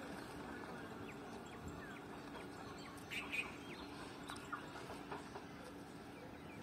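Small birds chirping in short, falling calls, loudest about three seconds in, over faint steady background noise.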